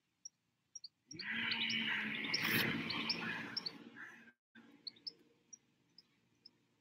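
Small birds chirping in short, high, scattered notes. A loud rushing noise starts about a second in, lasts about three seconds and cuts off abruptly.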